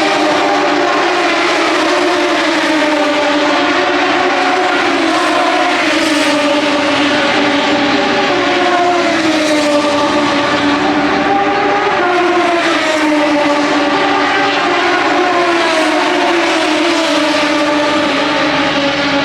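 Racing motorcycles on track: several engine notes overlapping in a continuous whine that slowly rises and falls in pitch as the bikes accelerate and brake.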